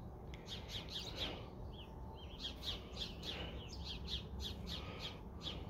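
Small birds chirping: a steady run of short, high, down-sweeping chirps, about three a second, over a low steady background noise.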